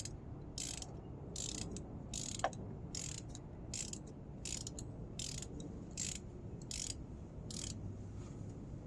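Ratchet wrench working a spark plug loose, its pawl clicking in short bursts on each back-stroke at an even pace of a little over one a second, stopping near the end. A single sharp tick about two and a half seconds in.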